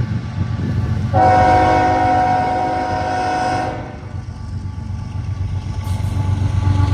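Norfolk Southern freight train's diesel locomotive horn sounding one long chord of several tones for about two and a half seconds, starting about a second in, over the steady low rumble of the passing train.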